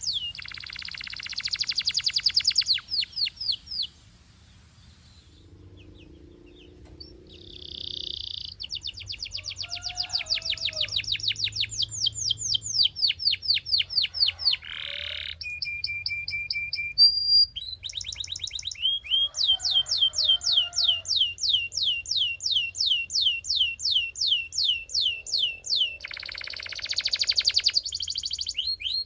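A Belgian canary singing: long runs of quickly repeated rising high notes, about five a second, broken by short buzzy trills and a brief pause a few seconds in.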